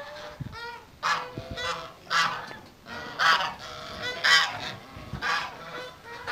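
Farm birds calling: a run of loud calls, about one a second.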